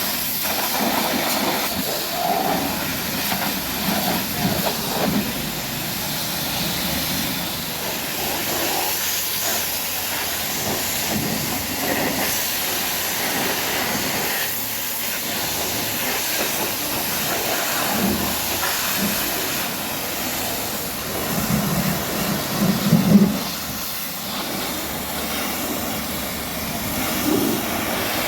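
High-pressure water spray hissing steadily against a car's bodywork during a wash, with a brief louder spell about three-quarters of the way through.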